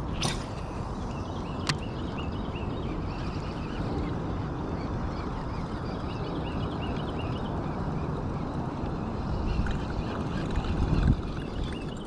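Open-air ambience from a kayak on the water: a steady low rumble of wind and water, with many short bird chirps in the background and two sharp clicks near the start.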